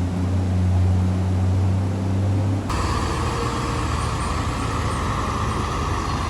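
A motor vehicle engine running with a steady low hum. About two and a half seconds in, it changes abruptly to a broader, hissier running noise.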